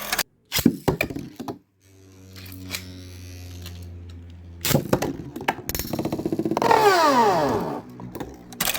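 Beyblade spinning tops clashing and whirring in a stadium: sharp clacks of impacts, a steady whirring hum in the middle, more clacks, then a whirr that falls in pitch near the end.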